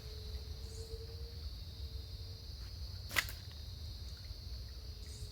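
Steady high-pitched drone of crickets or other insects, with one sharp click about three seconds in.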